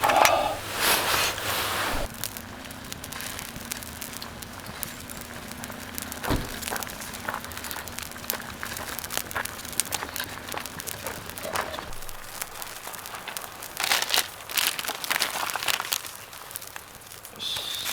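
Rustling and crinkling from handling things at a campsite, with scattered clicks and crackles. A faint steady hum runs for several seconds in the middle.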